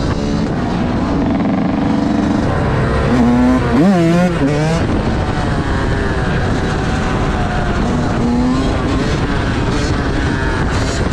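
Motorcycle engine running while riding, over a steady rush of noise. The engine note revs up and falls back about four seconds in.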